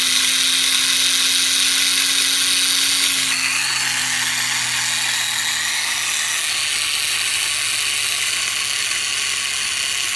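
Tiny electric motors of Air Hogs E-Charger toy planes running on the bench with their propellers spinning: a steady high whirr over a low hum. About three seconds in, the sound shifts lower and becomes slightly quieter.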